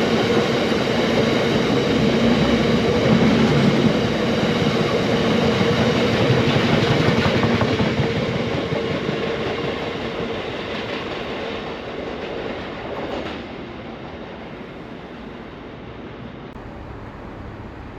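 A train passing at speed, loud for the first few seconds and then fading steadily as it moves away.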